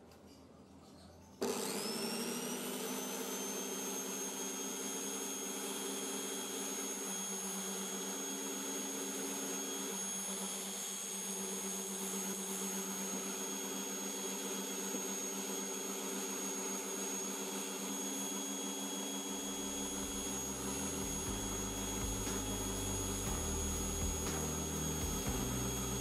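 Electric angle grinder with a flexible shaft attached, switched on about a second and a half in: its motor spins up with a rising whine and then runs steadily at full speed. A lower rumble joins about two-thirds of the way through.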